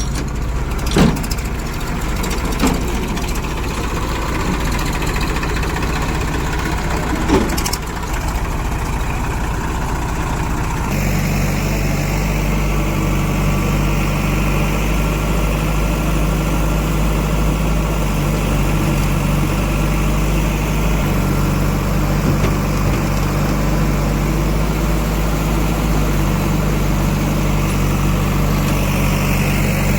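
Heavy diesel engine of earthmoving or farm machinery running steadily, with a few sharp knocks in the first several seconds. The engine note changes abruptly about a third of the way in, then holds steady.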